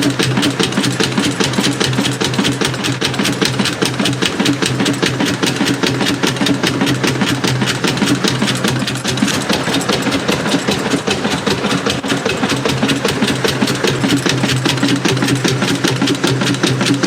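1902 Fowler steam traction engine running steadily, its exhaust and motion making a quick, even beat with a mechanical clatter.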